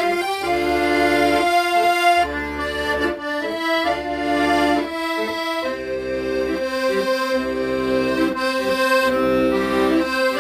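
Accordion playing a slow, sustained melody over rhythmic low chords.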